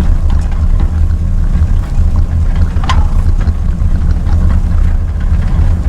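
Tractor engine running steadily while pulling a field cultivator, a loud, deep drone. About three seconds in, a short sharp sound sweeps down in pitch over the top of the engine.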